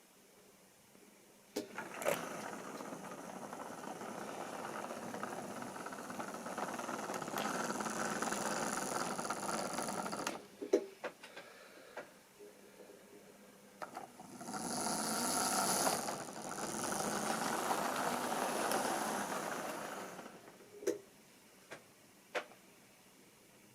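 A model railway train running along the track, its wheels rattling and clattering, passing by twice: it swells up and dies away over about eight seconds, then again over about six. Single sharp clicks come before, between and after the passes.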